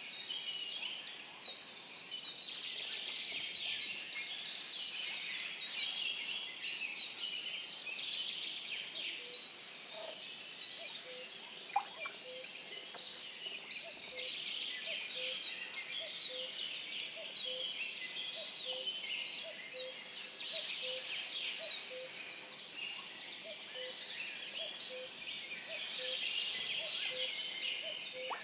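Many woodland birds singing at once, a dense overlapping chorus of trills and chirps. From about a third of the way in, a low note repeats evenly, a little more than once a second, beneath the song.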